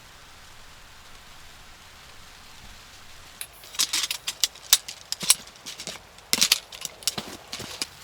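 Faint steady hiss, then from about three and a half seconds in an irregular run of sharp clicks and rattles of small hard objects being handled.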